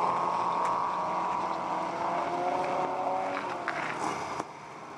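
Racing car engine running hard at high revs on a gravel track, its pitch sagging as the driver comes off the throttle, with a few sharp ticks. The sound drops away suddenly near the end.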